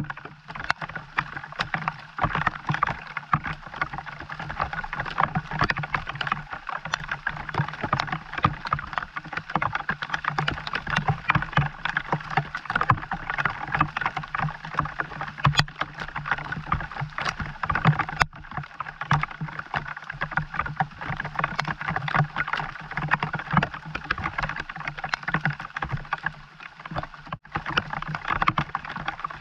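Steady rain pattering in dense, irregular drops, with a steady low hum underneath.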